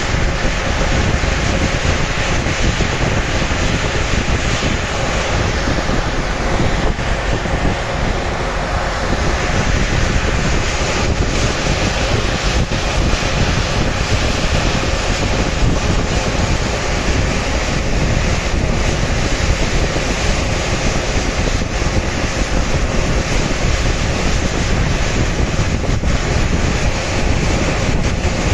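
Rough sea waves rushing and heavy wind buffeting the microphone, a loud steady roar, with a faint steady hum underneath.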